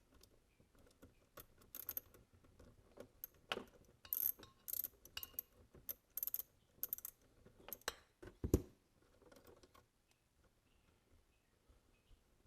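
A 5/16 wrench working the glow plug out of a small nitro RC engine's head: irregular metal clicks and scrapes of the tool on the plug and engine, with one louder knock about eight and a half seconds in, then it goes quiet for the last couple of seconds.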